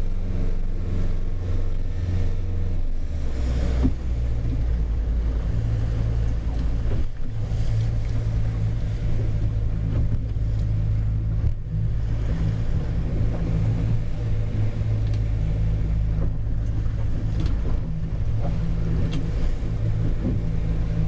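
Boat engine running steadily underway as a low drone, its note shifting about three seconds in.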